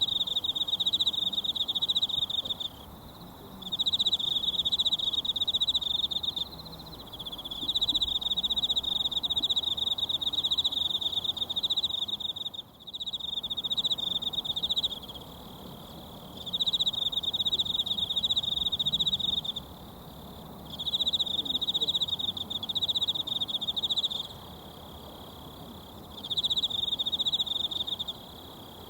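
An insect trilling loudly in repeated phrases of a few seconds, each separated by a pause of about a second. Under it runs the faint, even rush of a mountain stream.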